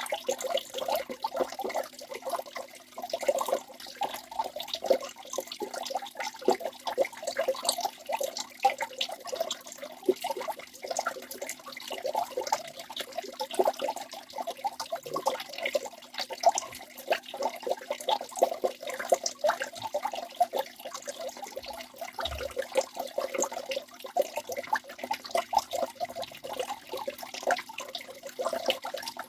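Waterfall: water falling and splashing without a break, a dense patter of many small irregular splashes over a steady rush.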